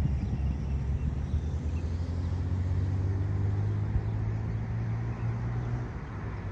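A low, steady engine hum that holds for a few seconds and then fades near the end, over low rumbling wind-like noise.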